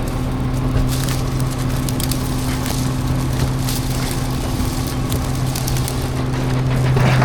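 Garbage truck engine running steadily while trash is crushed, with scattered cracking and splintering crunches. The engine gets louder near the end.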